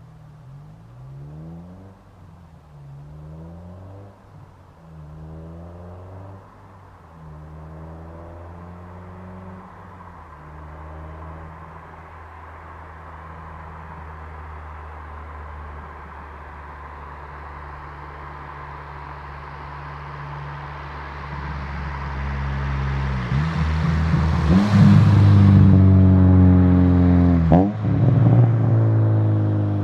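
Four-cylinder engine of a K24/K20-swapped Honda Civic, with a Skunk2 70 mm exhaust and gutted catalytic converter, accelerating hard through the gears: the exhaust note rises again and again with each gear. It grows steadily louder as the car approaches, is loudest as it passes close near the end, and then climbs again through the next gear.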